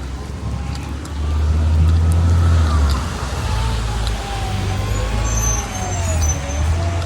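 Road traffic: a vehicle goes by with a low rumble, loudest from about one to three seconds in, and a faint whine slowly rises and falls.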